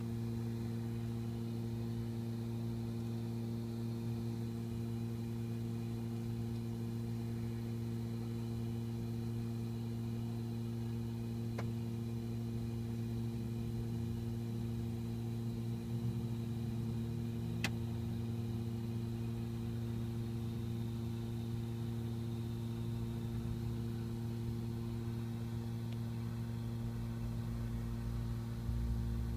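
A steady low mechanical hum with a few fixed tones over it, like a motor or engine running, with two faint ticks partway through.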